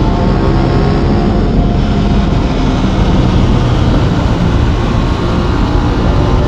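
Aprilia RS 660's parallel-twin engine running at road speed, with a steady rush of wind noise over it.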